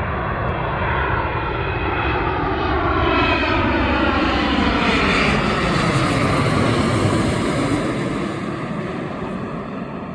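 Jet airliner on final approach passing overhead: engine noise builds to a peak about halfway through, with a falling whine, then fades as it moves away.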